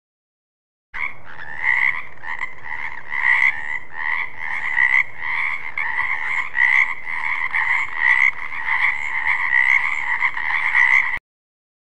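Frogs croaking in a dense run of repeated calls that pulse about once or twice a second. The calls start about a second in and cut off suddenly near the end.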